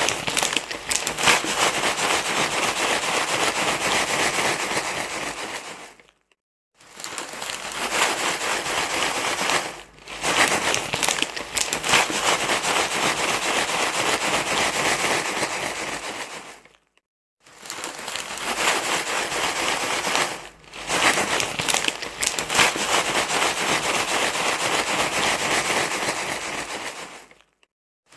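Continuous loud crinkling and rustling, like something crinkly being crumpled and handled, with many small crackles. It stops completely for about half a second three times, about six, seventeen and twenty-seven seconds in.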